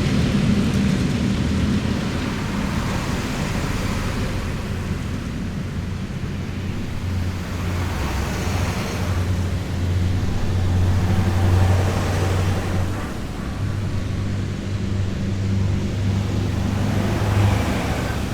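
Heavy military vehicles driving past in a column, their diesel engines droning low and steady while the rush of each passing vehicle swells and fades several times.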